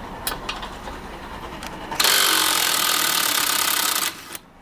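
Electric screwdriver running, undoing the screws that hold an electric tricycle's front wheel. It starts suddenly about two seconds in, runs steadily for about two seconds and cuts off. A few faint clicks come before it.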